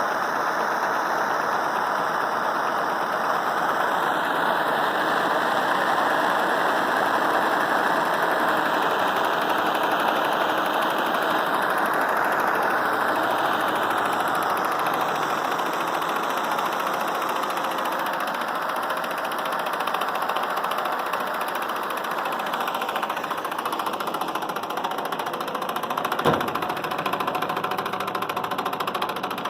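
Small all-metal Stirling engine running steadily at speed, heated by a jet stove, with one sharp click about 26 seconds in.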